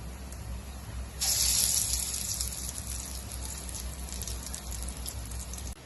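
Chana dal vada batter sizzling as it deep-fries in hot oil, starting suddenly about a second in, loudest at first, then a steady crackling sizzle that cuts off just before the end.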